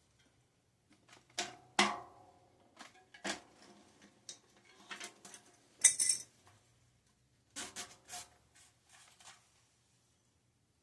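Irregular metallic clinks and clatters of bike tools and loose cassette sprockets being handled. The loudest clanks come about a second and a half in and near six seconds in.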